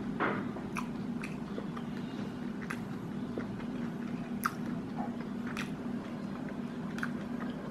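A person chewing a mouthful of chicken burger up close, with scattered wet mouth clicks. A steady low hum runs underneath.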